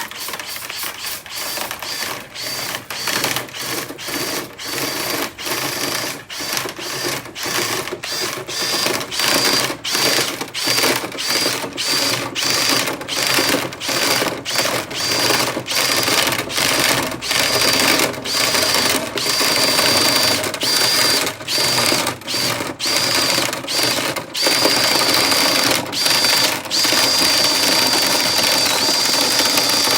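Power drill spinning a rotary dryer-vent cleaning brush: a steady high motor whine cut by brief dropouts about once or twice a second.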